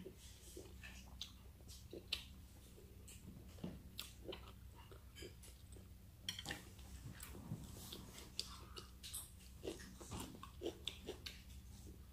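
Close-up chewing of boiled squid: faint, irregular wet mouth clicks and smacks.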